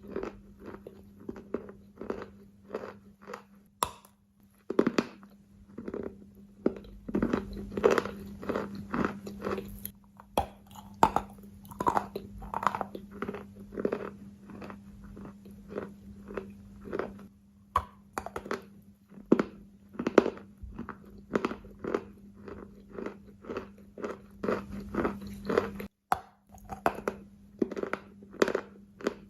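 Wet, gritty sand-like material being crunched again and again, about one to two sharp crunches a second, over a steady low hum.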